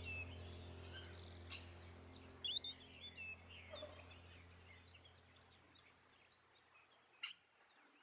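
Faint bird chirps and short whistled calls, the sharpest about two and a half seconds in and another near the end, over a low held music tone that fades out.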